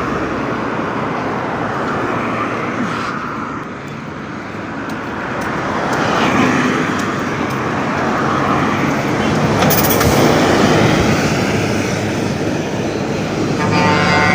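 Road traffic passing close by, a steady noise that swells as vehicles go past about six and ten seconds in. Near the end there is a brief pitched tone.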